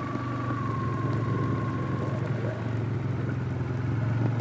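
Polaris ATV engine running steadily at low revs, with a thin high whine that fades out over the first two seconds or so.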